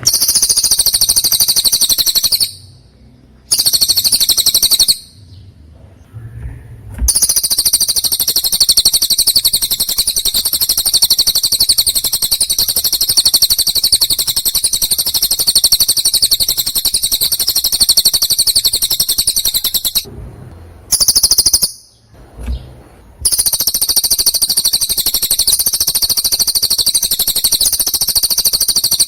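A songbird's song: a long, very fast, high-pitched chattering trill that goes on almost without a break. It stops briefly three times, about two and a half seconds in, around five to seven seconds in, and again around twenty to twenty-three seconds in.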